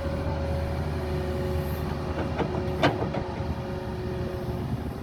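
A heavy diesel engine running steadily under a steady whine, with a single sharp metallic clank and a few lighter knocks about three seconds in.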